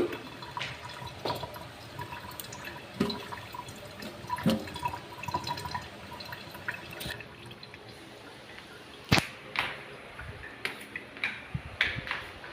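Water running and dripping in a small room, mixed with scattered knocks of things being handled. The running water stops about seven seconds in, leaving a few separate knocks.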